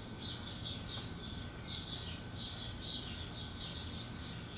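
Small birds chirping in short, quick repeated notes, about three a second, over a faint low background rumble.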